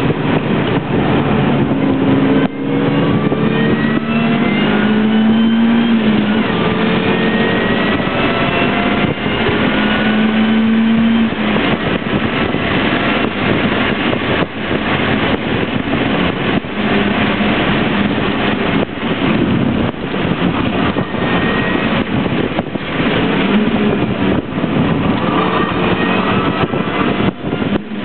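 Mini Cooper's engine accelerating hard, heard from inside the cabin over loud road and wind noise. After a short break in the sound a couple of seconds in, the engine note climbs steadily for several seconds, then carries on under changing throttle.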